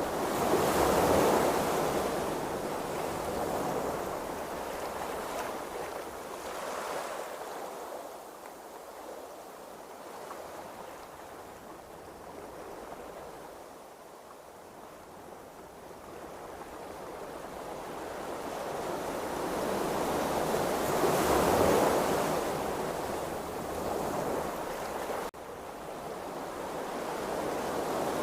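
Ocean waves washing in a steady rush that swells loud near the start and again about twenty seconds in, with a quieter stretch between. The sound cuts out for an instant about twenty-five seconds in.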